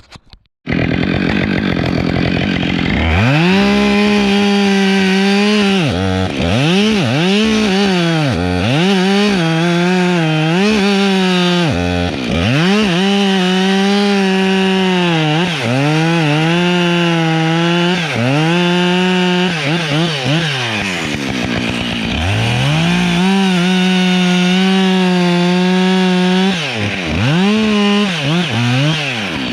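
Chainsaw running and cutting wood, its engine held at high revs through long stretches and blipped up and down in quick rev dips between them.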